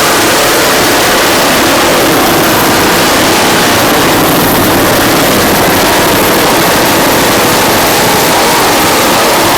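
Offshore racing powerboats' inboard engines running at speed, a loud, steady engine noise under a constant hiss.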